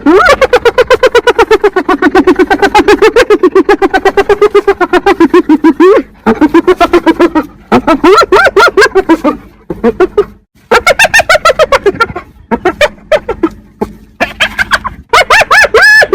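Spotted hyena giggling: a fast stuttering run of high-pitched calls, the hyena's 'laugh', for about the first six seconds, then shorter calls that rise and fall in pitch, with brief gaps between them.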